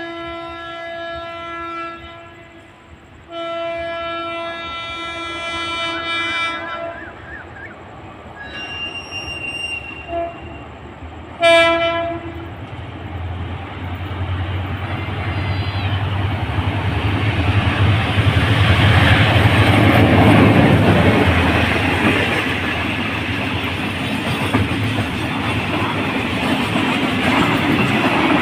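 Train sounding its horn as it approaches: two long blasts, then two short ones. From about halfway through, the rumble and clatter of the train passing through the station grows loud and continues.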